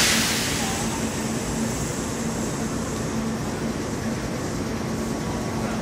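Kintetsu limited express electric train standing at the platform: a loud burst of compressed-air hiss right at the start, fading within about a second, then the steady hum of the stationary train with a low steady tone underneath.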